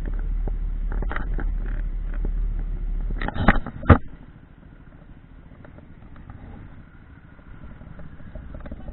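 Steady low rumble of a motorcycle on the move, heavy in the bass as on a rider's microphone. About three and a half and four seconds in it is broken by two loud knocks, after which it drops to a much fainter hum.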